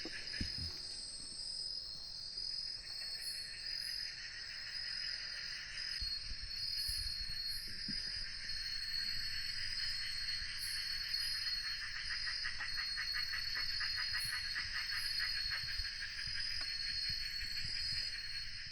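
Chorus of crickets and other insects: a steady high trill, a lower pulsing trill that swells through the middle, and short very high chirps now and then.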